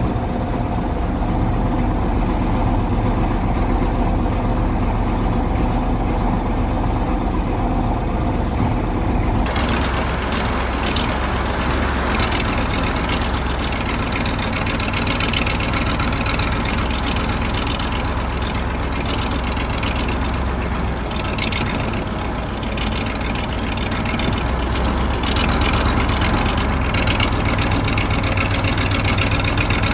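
The 1985 KAMAZ 4310 6x6 truck's V8 diesel engine runs steadily with a deep, even drone. About a third of the way in, the sound suddenly turns brighter and fuller.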